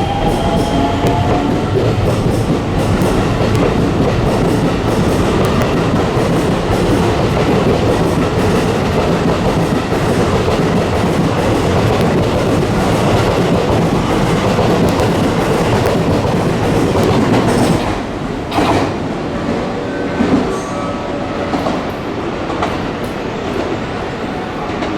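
Electric train running along the platform: a loud rumble with wheel clatter over the rail joints, and a rising motor whine in the first couple of seconds. The noise drops away sharply about 18 seconds in, leaving a quieter rumble and a few knocks.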